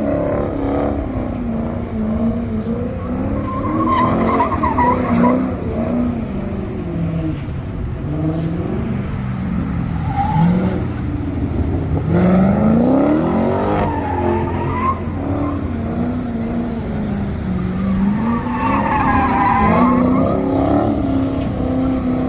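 V8 muscle car's engine revving up and down repeatedly while its tires squeal and skid, as the car is slid around a parking lot.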